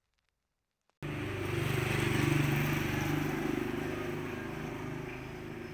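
After about a second of silence, a motor vehicle's engine cuts in abruptly, gets louder, then slowly fades as it passes by.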